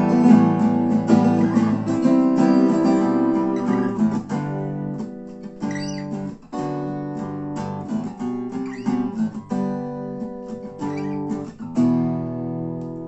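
Acoustic guitars strumming chords in an instrumental break of an Americana-style song, played live.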